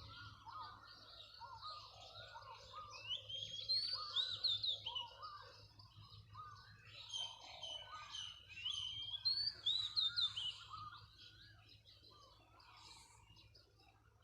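A flock of birds chirping and calling at once, many short rising-and-falling calls overlapping; the calling thins out over the last few seconds.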